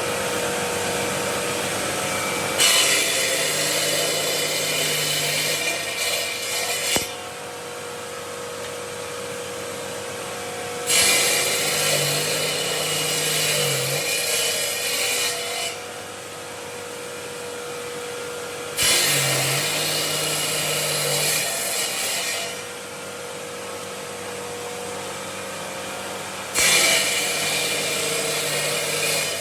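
Stone-working machinery: a steady machine hum with loud spells of high, gritty cutting or grinding noise, each lasting three to five seconds and returning about every eight seconds.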